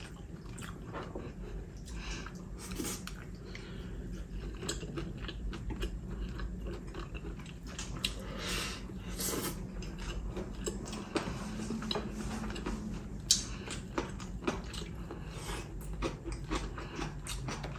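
Two people eating spicy braised chicken with chopsticks: chewing and biting, with many small mouth clicks and smacks.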